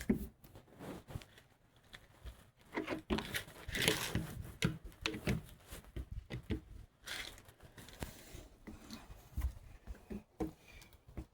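Squeegee being drawn across the smoker's surface: a series of short, irregular scraping and wiping strokes with small knocks in between.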